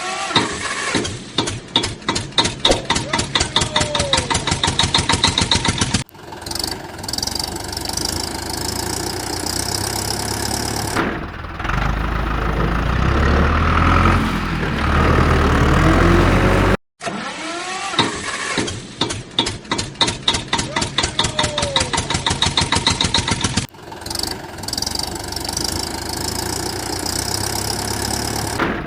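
Mini tractor engine starting and running with a rhythmic putter of about four to five beats a second, then settling into a steadier run. The sound comes in edited pieces with abrupt cuts, and the pulsing start is heard twice.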